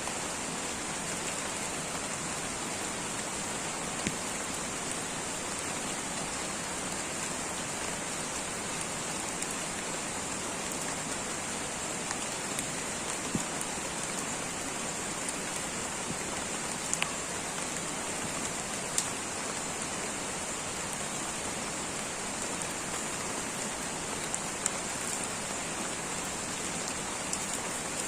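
Light rain falling steadily, with a few sharper single drop ticks now and then.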